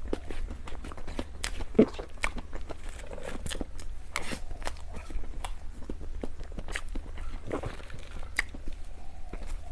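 A person chewing and biting into dessert, with many small sharp mouth clicks and smacks and one louder click a little under two seconds in.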